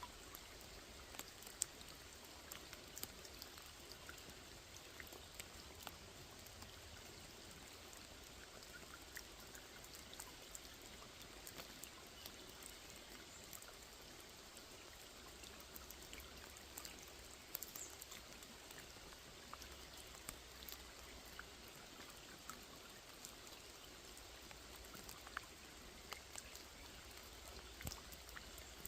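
Faint steady rain falling on a small pond, a continuous hiss dotted with many close individual drops ticking.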